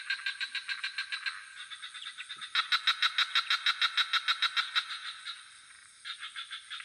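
Frogs calling in pulsed trills of about seven or eight pulses a second, in overlapping bouts. The loudest bout runs from about two and a half to five seconds in, and after a short pause another starts near the end. A steady high-pitched hum runs underneath.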